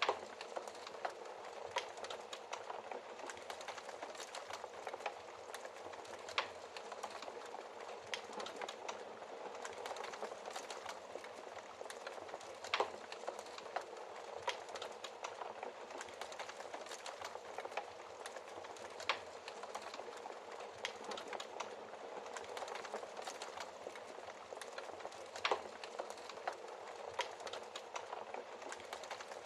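Wood fire crackling in a fireplace: a steady dense crackle of small snaps, with a few louder pops spaced several seconds apart.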